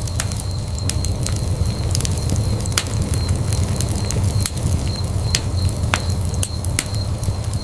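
Wood fire burning in a fireplace, with a steady low rumble of the flames and frequent sharp, irregular crackles and pops from the burning wood.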